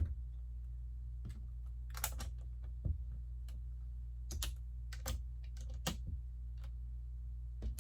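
Lego bricks clicking and tapping as small plastic pieces are handled and pressed together, a few separate clicks over several seconds.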